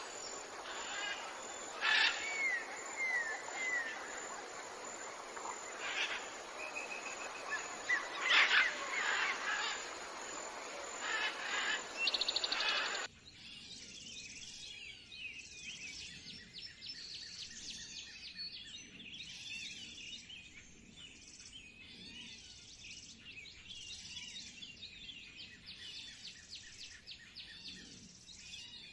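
Wild birds calling and singing over outdoor background noise, with short whistled phrases and chirps. About halfway through, the sound cuts abruptly to a quieter scene of rapid, dense high-pitched chirping.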